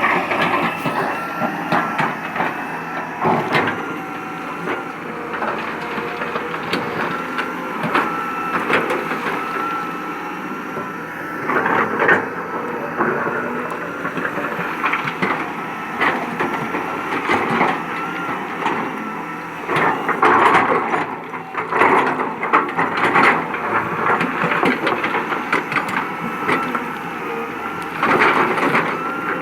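Excavator working rock and soil on a new forest road cut: its engine and hydraulics run steadily under a continuous clatter of cracking, crunching stone, with heavier bursts of breaking rock now and then.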